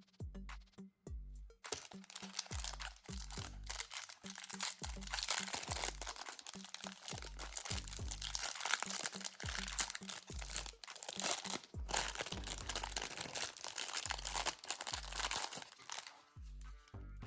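Packaging being crinkled and torn open by hand, a dense crackling that starts about two seconds in and stops shortly before the end, over background music with a steady beat.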